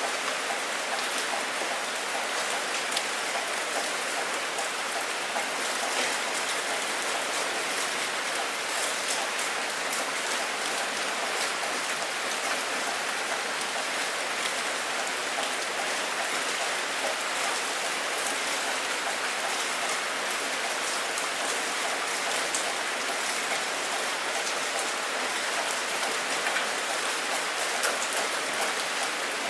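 Steady rain falling: an even hiss of drops, with many small sharp drop impacts ticking through it.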